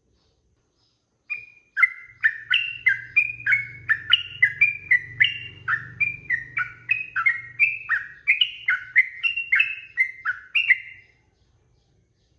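Yellow-vented bulbul (trucukan) singing a long, fast run of chirpy notes, two to three a second, swinging between higher and lower pitch. The run starts about a second in and stops near the end.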